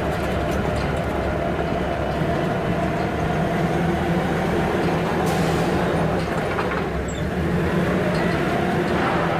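Steady mechanical rumble with a low hum, unbroken throughout.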